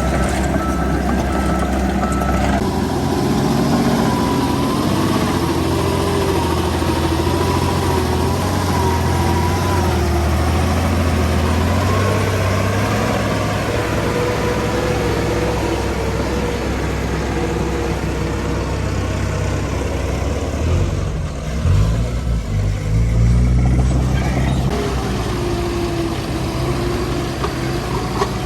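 Heavy diesel earthmoving machinery running, engine pitch shifting as it works. A truck's reversing beeper sounds until about two seconds in, and near the end the engines surge louder and uneven for a few seconds.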